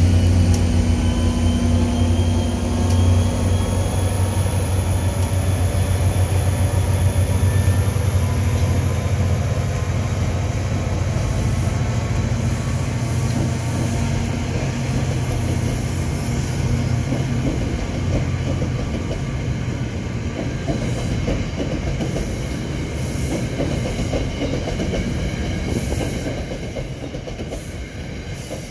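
A departing NJ Transit diesel-hauled passenger train passing close by. The locomotive's diesel engine hum is strongest at first and fades as the coaches roll past, with wheels clicking over the rail joints and a high whine rising slowly in pitch as the train gathers speed. The sound eases near the end as the train moves away.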